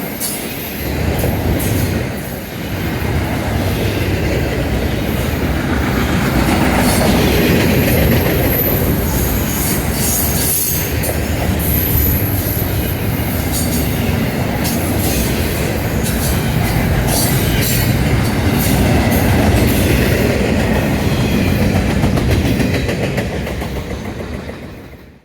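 Freight train cars rolling past on the main line, wheels clacking over the rails with a thin, intermittent high wheel squeal; the sound fades out near the end.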